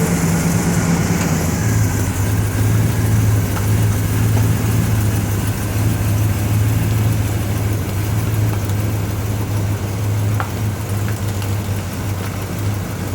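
1970 Pontiac GTO's freshly rebuilt V8 engine idling at a steady, even speed on its first run after the rebuild.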